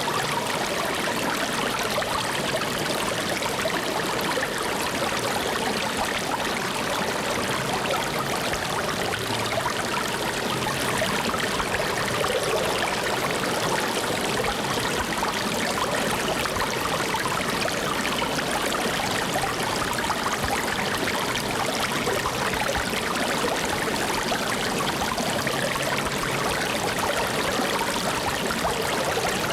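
Flowing water running steadily, an even rush with no breaks or changes.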